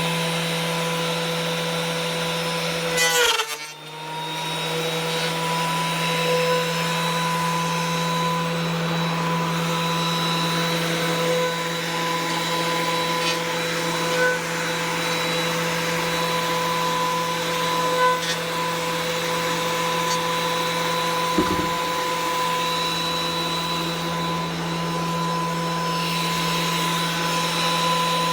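Electric motor running steadily with a constant whine. About three seconds in it bogs down briefly with a sharp noise, then spins back up to speed.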